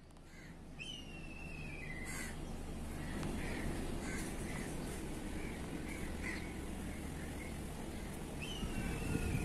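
Bird calls: a long, falling, whistled call about a second in and again near the end, with short calls repeated about every half second in between, over a steady low rumble.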